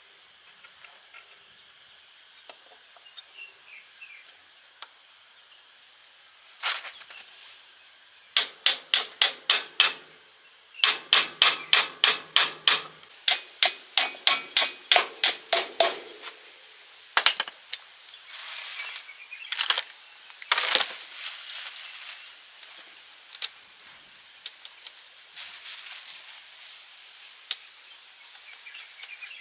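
Metal being struck with a hammer in three quick runs of about five or six blows a second, each blow ringing sharply, then a few slower scattered knocks.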